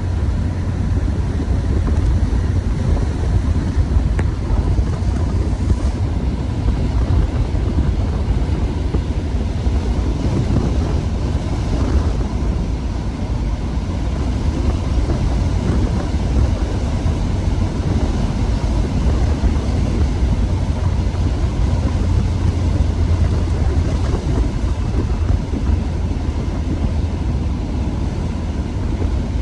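1993 Mazda Miata under way: steady engine and road noise, with wind rumbling on the microphone.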